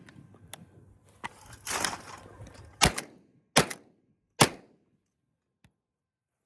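Benelli M2 20-gauge semi-automatic shotgun fired three times in quick succession, the shots under a second apart, each followed by a short ringing tail. A few lighter clicks come before the shots.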